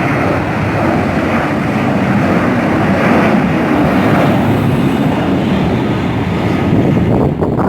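Jet airliner engines running loud and steady, a continuous rushing noise as the plane takes off.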